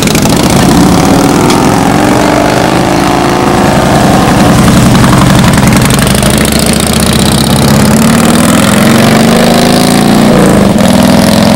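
Motorcycle engine running as the bike pulls away, its pitch climbing, dropping briefly about ten seconds in as if at a gear change, then climbing again.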